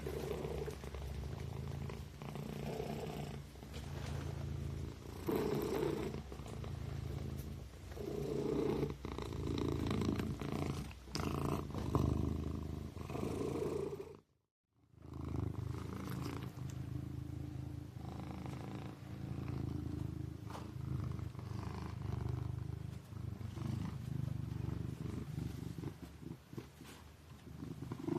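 Kitten purring: a steady low rumble that swells and eases in waves every couple of seconds. It cuts out completely for about half a second halfway through.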